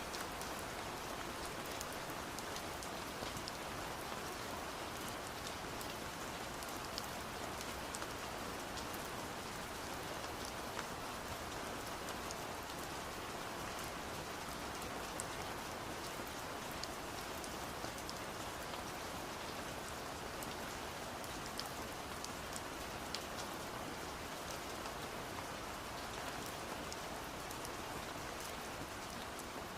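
Steady rain with many small, sharp taps of drops on window glass scattered through it.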